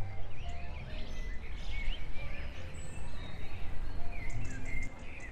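Several birds chirping and trilling in quick short calls, over a soft background with a few held low notes.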